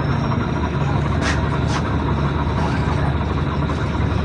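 PAZ Citymax 9 city bus heard from inside the cabin: the engine running steadily with road noise, and two short sharp clicks about a second and a half in.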